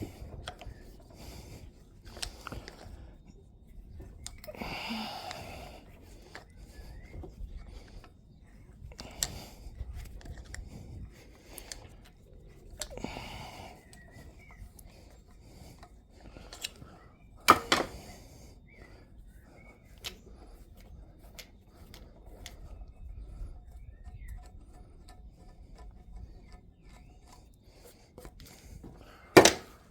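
Scattered clicks and knocks of hand tools working on metal tractor parts, with two much louder sharp knocks, one about halfway through and one near the end, and a couple of short hissy rustles.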